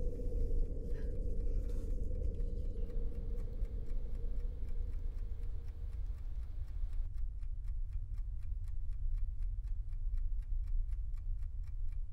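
A low, steady drone with an even ticking over it. The drone fades about seven seconds in, leaving the fast, regular ticking on its own.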